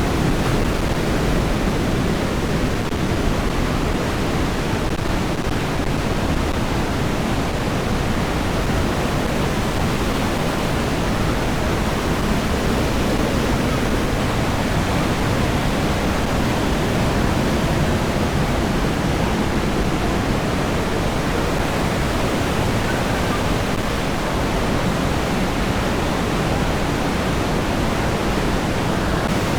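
Water rushing and falling through a narrow rock gorge: a steady, unbroken roar of mountain-river waterfalls.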